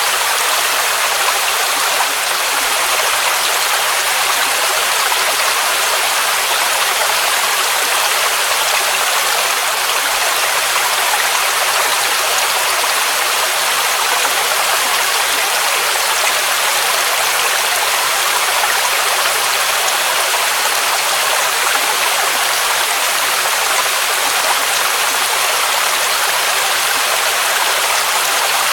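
Waterfall rushing steadily: an even hiss of falling water with little low rumble.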